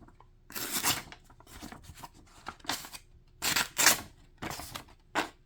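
Freshly sharpened knife blade slicing through paper in several short, rasping strokes. The edge has jagged spots that keep it from cutting cleanly.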